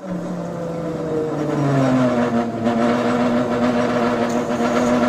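Renfe Class 130 passenger train passing the level crossing: a loud hum drops in pitch over the first two seconds, then holds steady over the running noise of the train.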